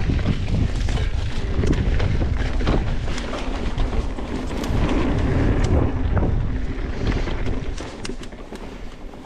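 Wind rushing over the microphone of a mountain bike descending a dirt trail, with tyres running over the dirt and many short rattling clicks from the bike over the bumps. The noise eases about eight seconds in as the bike slows.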